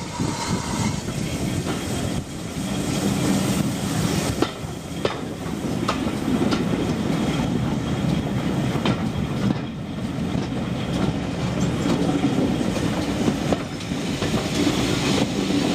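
Preserved railway passenger train running slowly over jointed track, heard from a carriage window: a steady rumble of wheels on rails with scattered clicks as the wheels pass rail joints.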